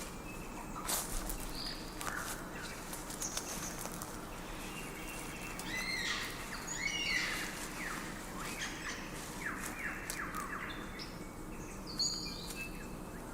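Forest birdsong: many short chirps and whistled calls, over a faint steady hiss, with the busiest runs of calls about six to seven seconds in and again between nine and twelve seconds.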